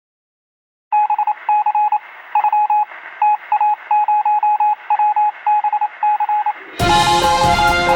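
Electronic beeps at one pitch in irregular short and long groups over a faint hiss, thin like a radio or telephone line, starting about a second in. Music starts loudly near the end.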